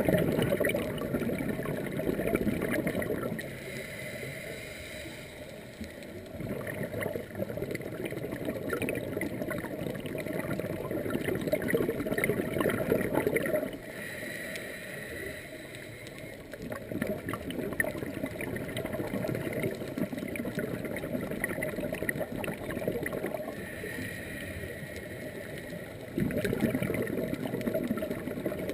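A scuba diver breathing through a regulator underwater. Long stretches of bubbling exhaust alternate with shorter, quieter inhalations carrying a faint hiss, the cycle repeating about every ten seconds.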